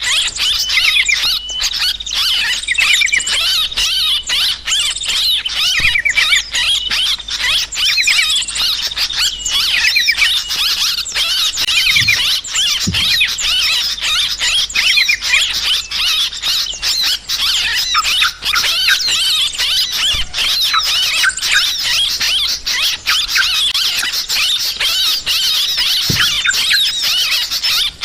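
A dense, unbroken chorus of agitated yellow-vented bulbuls (trucukan) chattering, with small birds' chirps layered in. It is a bird-trapping lure recording of alarmed, excited calls.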